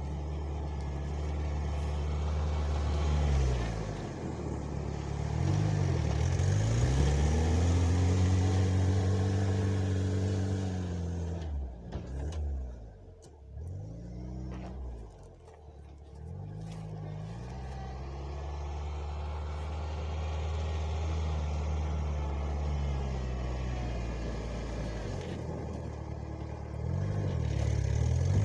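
Homemade mini tractor's engine running under load while clearing snow, its speed repeatedly rising and falling, dropping lowest about halfway through before picking up again.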